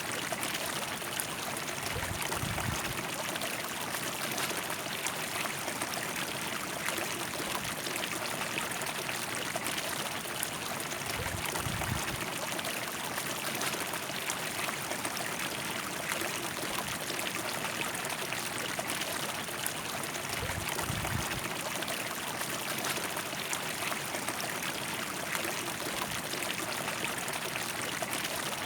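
A river flowing steadily, a constant even rush of water, with three brief low rumbles underneath.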